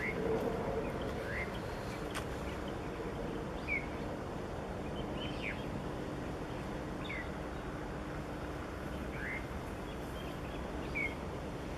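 A bird chirping, about seven short single chirps a second or two apart, over steady outdoor background noise with a faint low hum.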